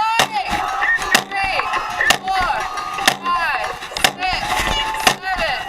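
Dragon boat drum struck in a steady beat, about one stroke a second, over many voices shouting and cheering.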